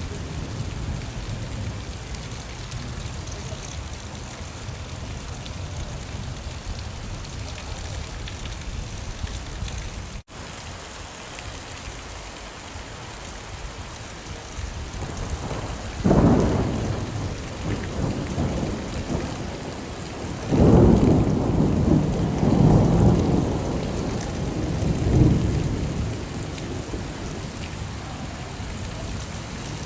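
Steady rain falling, with thunder: a sudden low clap about halfway through, then longer, louder rolling rumbles a few seconds later.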